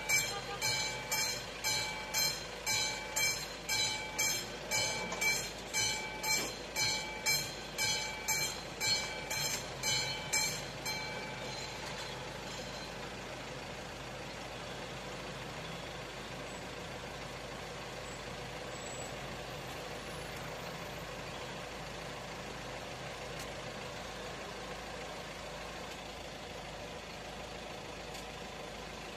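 Classic bell of an AŽD 71 level-crossing warning signal striking steadily, about one and a half strokes a second, then falling silent about ten seconds in as the warning ends after the train has cleared. Steady road-traffic and engine noise follows.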